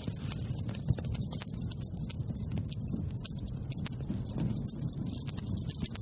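Wood campfire burning: frequent sharp crackles and pops over a steady low rumble of the flames, with one louder pop about a second in.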